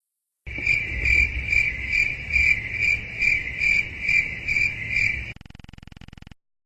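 Crickets chirping sound effect: a high trill pulsing about two and a half times a second over a low rumble. It cuts off suddenly about five seconds in, leaving a faint buzz for about a second.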